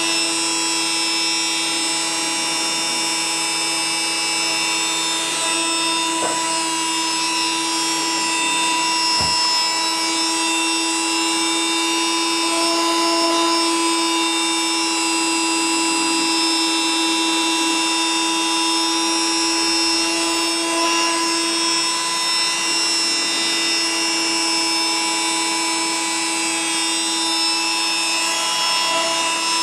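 CNC machine running: a steady motor whine made of several fixed tones, with a few shorter tones briefly coming and going.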